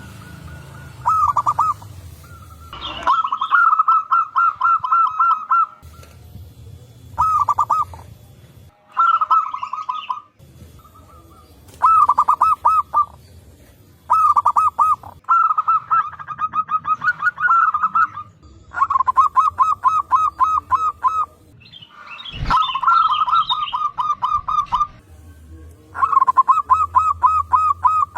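Zebra doves (perkutut) cooing in repeated bouts of quick staccato notes, about four a second, with short pauses between bouts. Faint higher chirps of other birds sound behind them, and there is one sharp click about 22 seconds in.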